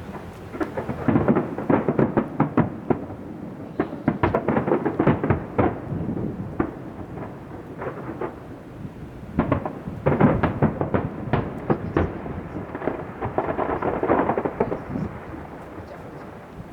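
Fireworks display: rapid volleys of bangs and crackling in three waves, about a second in, around ten seconds in, and again around fourteen seconds, dying down near the end.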